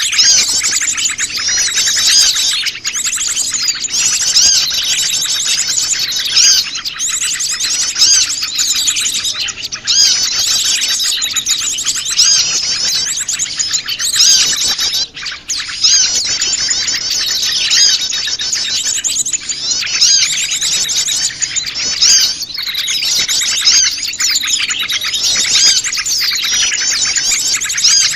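Dense chorus of many small wild songbirds chirping and twittering at once, calls overlapping with no pause, as in a mixed bird-lure recording.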